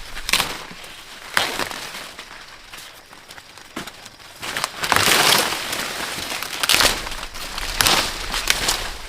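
Dry corn plants being handled: husks and leaves rustling, with irregular crunches and snaps, the loudest about halfway through.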